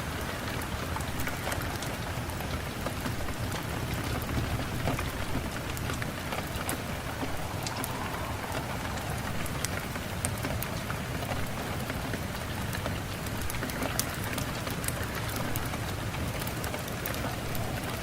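Steady rain falling, with many close drops pattering and clicking on a surface over a continuous hiss.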